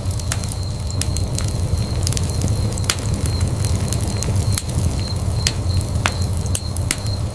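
Wood fire burning in a fireplace: a steady low rumble of flame with irregular sharp crackles and pops from the burning logs, several each second.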